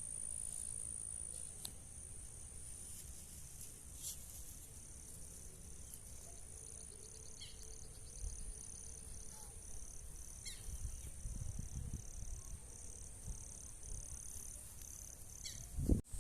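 Forest ambience: a steady high insect drone, with a second insect call pulsing about twice a second through most of it. A few short, falling bird calls come in here and there.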